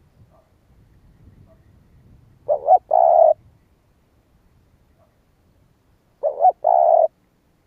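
Spotted dove cooing: two calls about four seconds apart, each a short stuttered note followed by a longer coo.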